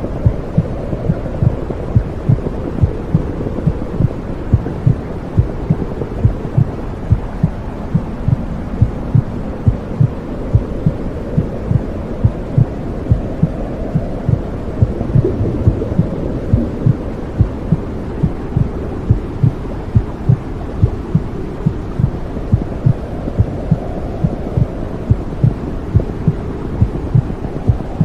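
Womb sound for soothing a baby: a steady, regular heartbeat thumping over a continuous low whooshing rumble.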